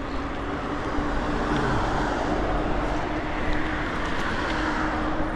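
Road traffic: a vehicle passing, its tyre and engine noise swelling about a second in and easing off in the second half, over a steady low rumble.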